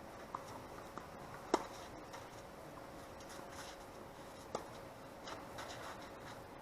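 Tennis ball struck by rackets twice, about three seconds apart, each hit a sharp ringing pop, the first the louder, with a few fainter ticks in between.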